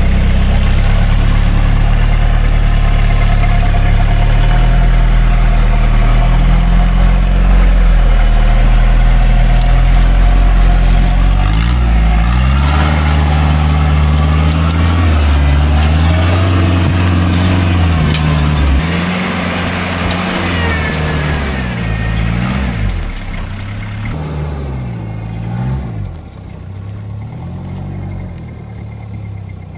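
Rock-crawling comp truck's engine working up a steep rock climb, its revs rising and falling repeatedly, loud at first and easing off and quieter over the last several seconds.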